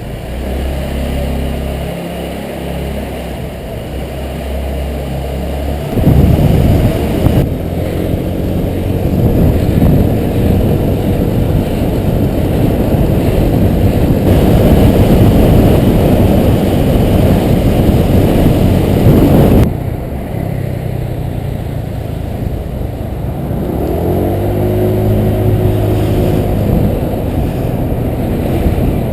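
Honda PCX 125 scooter's single-cylinder engine running steadily, then about six seconds in a loud steady rush of riding noise covers it. About two-thirds through the rush drops away to the engine again, which rises in pitch as the scooter accelerates near the end.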